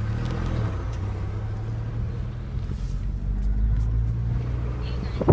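Motor vehicle engine running steadily at idle, a low, even hum.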